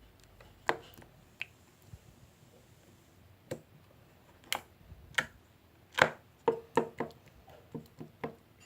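Slime being squeezed and pressed by hand, making about ten sharp pops and clicks at irregular intervals, clustered and loudest around the middle.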